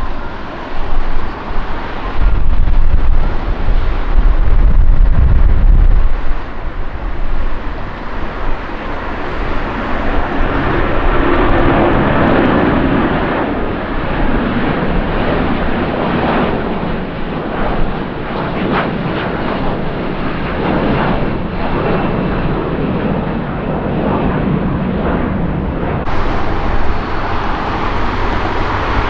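Jet airliner passing, its engine noise building from about ten seconds in and holding steady, with wind buffeting the microphone in the first few seconds.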